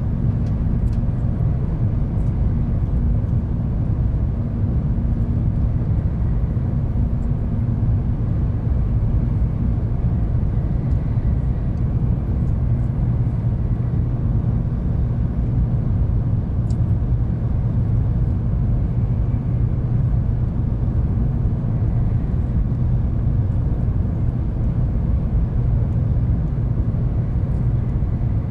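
Cabin noise of a 700 series Shinkansen train running along the line: a steady low rumble of wheels and running gear heard inside the passenger car, with a faint tone that fades out about ten seconds in.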